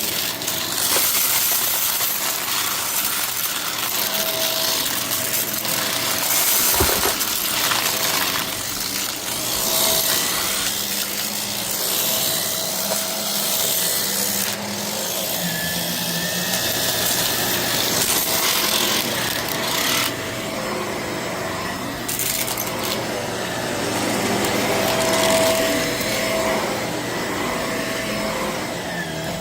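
Vacuum cleaner running steadily and sucking up a scattered debris mix, with hard bits clicking and rattling up through the machine and a faint whine that comes and goes.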